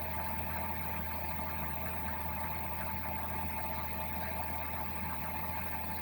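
Suzuki Wagon R's three-cylinder kei engine idling steadily with the air-conditioning blower running, started remotely to defrost the frosted car. A constant low hum with a steady higher tone over it.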